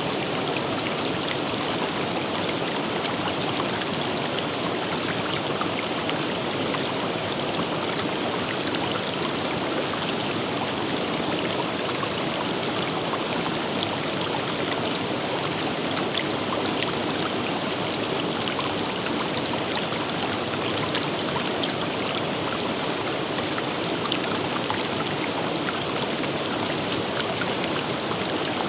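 Forest river water flowing over rocks with a steady rushing babble, with small splashes and drips scattered through it.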